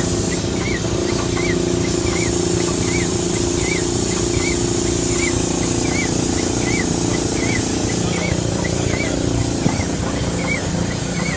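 1912 Case steam traction engine running at idle, with a steady hiss and low rumble and a short high squeak repeating evenly about twice a second.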